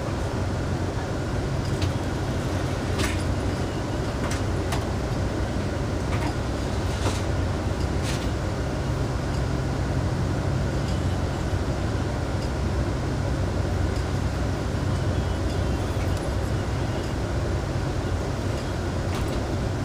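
Moving Amtrak Sunset Limited passenger car, heard from inside: a steady low rumble of the train running, with a few sharp clicks in the first half.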